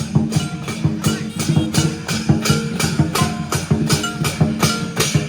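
Lion dance music: cymbals and drum beating a fast, even rhythm of about four strokes a second, with a melody running over it.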